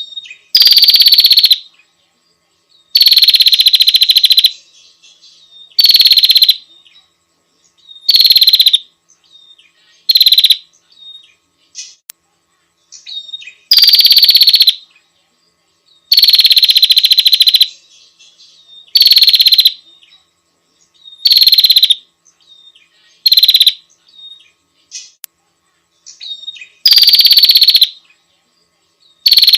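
Female prinia (prenjak) calling: a rapid, high-pitched pulsing trill repeated in about a dozen loud bursts of half a second to two seconds each, a couple of seconds apart. This is the call a female gives to summon a male.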